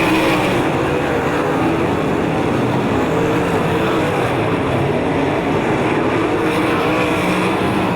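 360 sprint car V8 engines running on the track, their pitch rising and falling as they lap.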